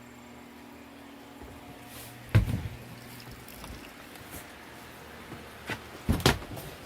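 A low steady hum that fades out partway through, broken by two loud thumps, one about two and a half seconds in and one about six seconds in.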